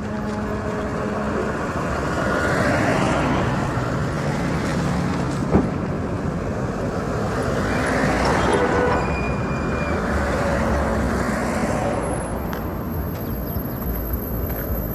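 Road traffic: a steady rumble of vehicles, two passing close by, about three seconds in and again about eight seconds in, with a single sharp click in between.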